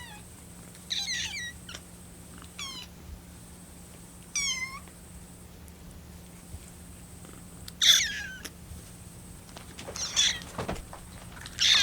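Young kittens, about 25 days old, mewing about six times in high, thin calls while hungry for milk. The first few calls have a warbling vibrato that makes them sound like a small bird chirping, and the later calls are louder.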